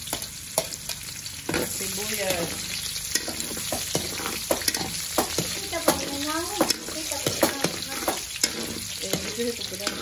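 Chopped garlic, onion and meat frying in hot oil in a wok, sizzling steadily while a metal spatula stirs and scrapes, with frequent sharp clicks and knocks against the pan. The sizzle swells about a second and a half in.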